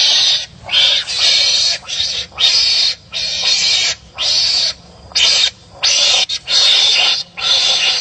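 Wild animals giving harsh, raspy barking calls in quick succession, about a dozen short calls with brief gaps between them, as animals fighting with each other.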